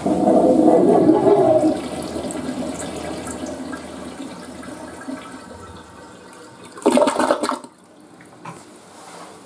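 Western-style toilet flushing: a loud rush of water for the first couple of seconds that tapers off over the next few. About seven seconds in there is a brief louder surge of water, then it quiets down.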